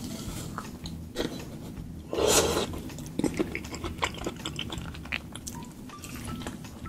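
Close-miked eating: chewing and biting with wet smacks and small clicks, and one louder crunchy burst about two seconds in.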